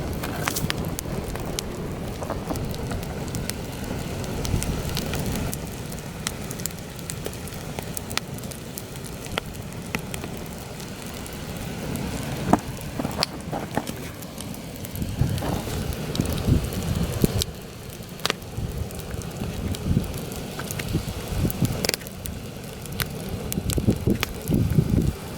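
Campfire burning, with frequent sharp crackles and pops from the burning wood. Heavy wind blows over it as a low rumble that swells and drops in gusts.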